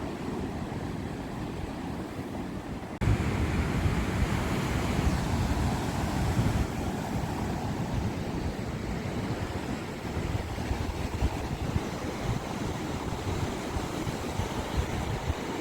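Sea waves washing onto the shore in a steady rush of surf. About three seconds in, the sound jumps suddenly louder and fuller.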